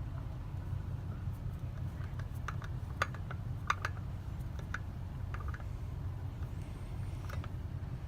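Scattered light clicks and taps of small parts being handled and fitted, over a steady low rumble in the background.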